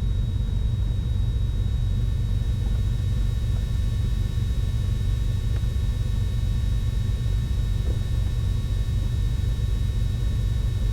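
Twin piston engines of a Cessna 310Q running at low power on the ground, heard from the cockpit as a steady, even rumble with a faint steady high tone above it.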